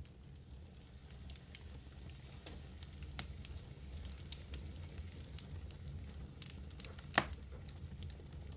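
Medium wood fire burning: a steady low roar with scattered crackles and pops throughout, and one sharp, loud pop about seven seconds in.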